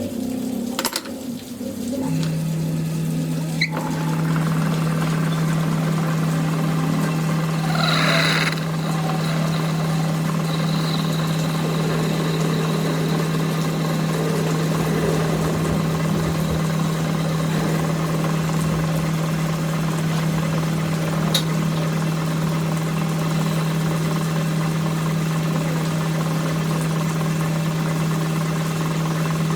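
A machine's motor starts about two seconds in and runs with a steady, even hum, with a short scraping hiss about eight seconds in.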